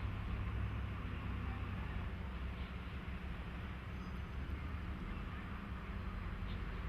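JNR DE10 diesel-hydraulic locomotive engine running with a steady, low hum.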